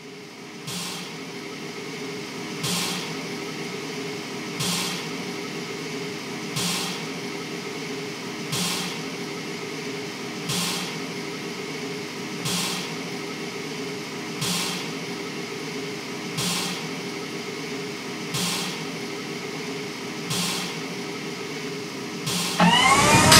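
A steady mechanical hum with a soft hissing puff repeating about every two seconds; music comes in loudly just before the end.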